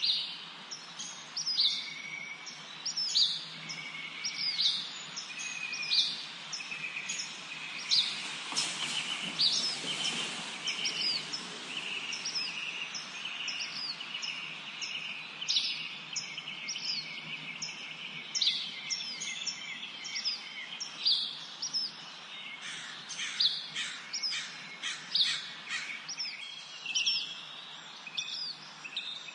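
Several songbirds chirping and singing together in a spring forest: quick, high, down-slurred chirps repeat throughout over lower whistled notes. There is a brief rush of noise about nine to eleven seconds in, and a run of fast buzzy notes near the end.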